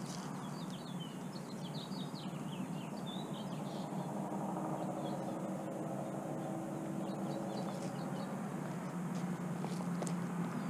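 Small birds chirping in quick high twitters, in two bouts, over a steady low hum.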